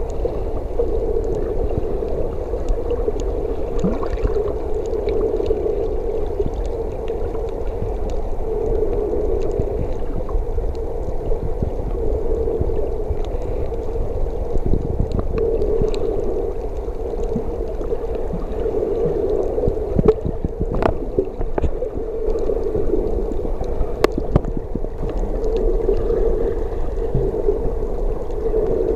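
Sea water heard underwater through a camera's waterproof housing: a muffled, steady hum and rumble that swells and fades, with a few faint clicks scattered through.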